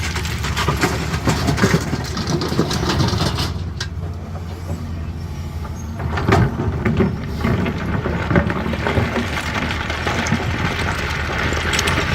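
CAT 320D hydraulic excavator's diesel engine running steadily under load, with clattering knocks of stone, heaviest a little past the middle.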